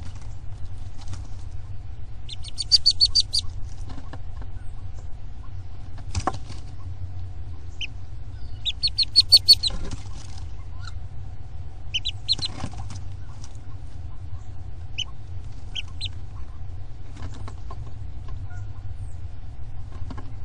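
Bird calls: two quick runs of high chirps, each about a second and a half long, the first about two seconds in and the second about nine seconds in, with a few single chirps scattered between them over a steady low hum.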